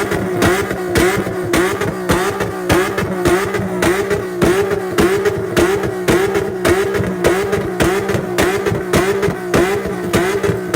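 Car engine revving hard in a steady rhythmic pulse, its pitch dipping and recovering about twice a second.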